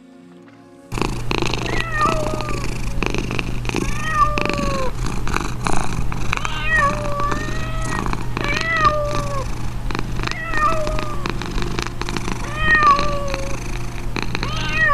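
Cat meowing over and over: short calls that rise and fall in pitch, coming every second or two, starting suddenly about a second in over a steady low hum.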